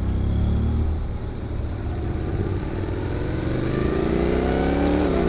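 Honda NC750X parallel-twin engine running through a GPR aftermarket muffler while riding, with a low exhaust note. Over the second half the pitch rises steadily as the bike accelerates, then drops with a gear change near the end.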